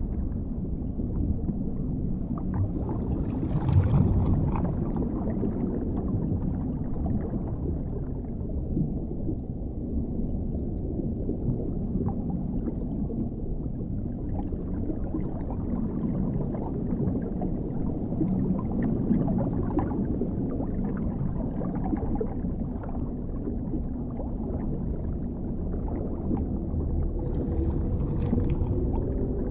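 Underwater ambience: a steady deep, muffled rumble with gurgling, swelling about four seconds in and again near the end.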